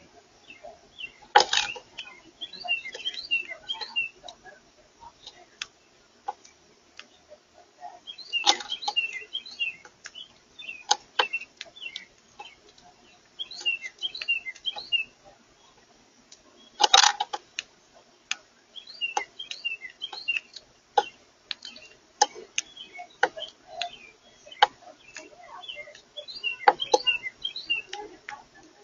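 Birds chirping in short clusters of quick high notes every several seconds, mixed with sharp clicks and taps. The loudest are a few louder cracks at the start of some chirp clusters.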